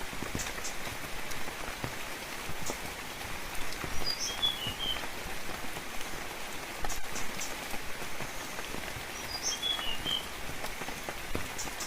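Steady gentle rain pattering, with now and then a louder drop. A bird gives a short chirping phrase twice, about four seconds in and again about nine seconds in.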